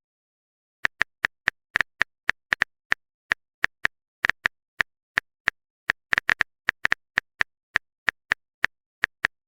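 Phone keyboard typing sound effect: a run of short, irregular clicks, about three a second.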